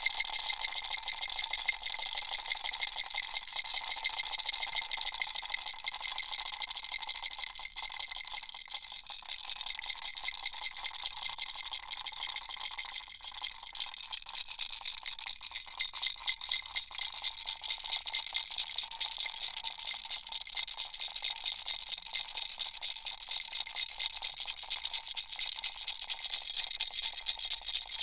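Baby's toy rattle shaken without a break: a fast, dense rattling of small beads, with a faint steady ringing tone under it.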